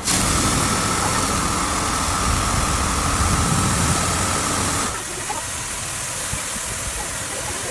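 Automatic car wash machine running: a steady mechanical hum with a hiss and a thin whine. About five seconds in, the sound changes suddenly to a somewhat quieter steady hum and hiss without the whine.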